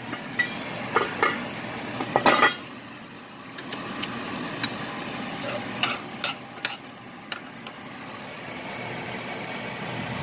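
A metal spoon clinking and scraping against the pan while stirring ground chicken in a creamy sauce, over a steady sizzle from the pan. The sharp clinks come irregularly, the loudest cluster about two seconds in.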